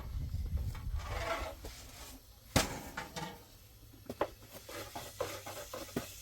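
Scattered sharp knocks and clicks over a low rumble, the loudest a single sharp knock about two and a half seconds in.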